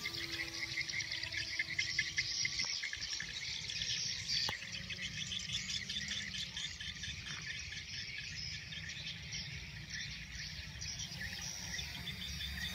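Insects chirping in a dense, rapidly pulsing chorus, with a low rumble underneath. A faint gliding motor tone fades out about a second in.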